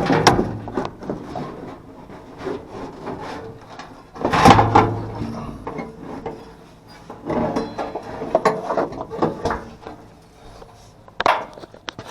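Irregular scraping, rubbing and knocking of hard objects being handled, loudest about four and a half seconds in.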